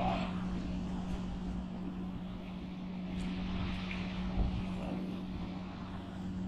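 A steady engine-like drone, one low hum that holds without rising or falling, with a brief knock about four and a half seconds in.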